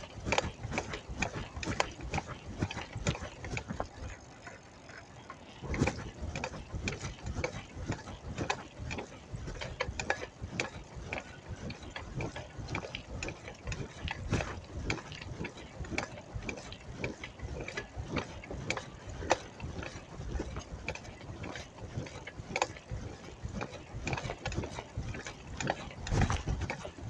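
Bicycle rear hub's freewheel ratchet ticking rapidly as the bike coasts, over a low rumble from the ride. The ticking eases briefly about four seconds in.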